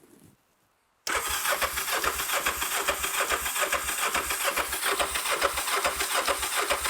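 Electric starter cranking a Kawasaki GPZ500S's parallel-twin engine, cutting in suddenly about a second in and turning over with an even, rhythmic pulse without catching; the owner suspects the engine is flooded.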